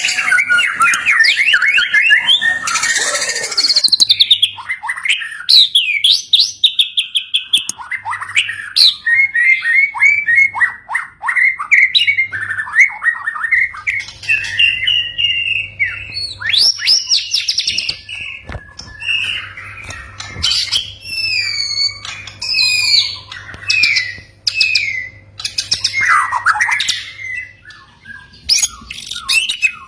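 White-rumped shama singing: a continuous, varied run of loud whistles, quick trills and rapid chattering notes.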